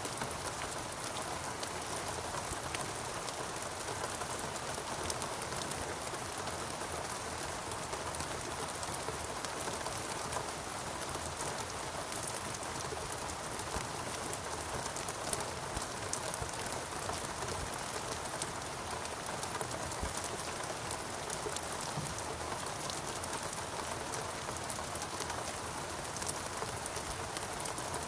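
Steady rain falling in a rainforest: an even hiss thick with the close patter of individual drops, unchanging throughout.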